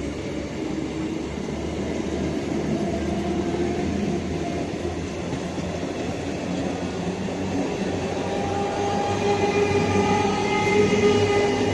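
Train running past on the rails with a steady, dense rumble of wheels and cars. In the last few seconds a held tone comes in over the rumble.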